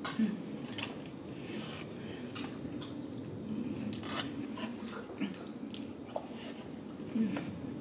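Close-miked chewing of crispy fried food: a run of small irregular crunches and clicks.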